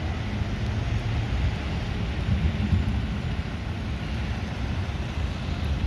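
Steady rain falling on a flooded street, a continuous hiss, with a low, uneven rumble underneath.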